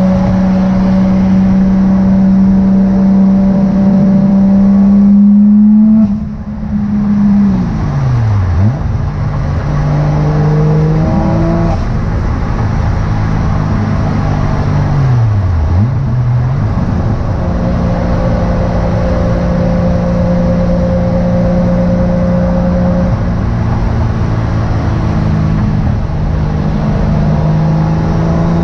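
Turbocharged Toyota 1JZ VVTi inline-six running under way, holding steady revs. About six seconds in the revs drop sharply as the throttle lifts and a gear changes, then build again. A second drop in revs comes a little past halfway.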